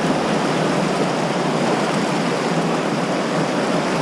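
River whitewater rushing: a loud, steady, even wash of water noise from the rapids.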